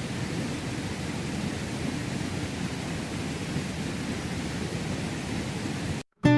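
Steady rushing water. It cuts off suddenly near the end, and acoustic guitar music starts just after.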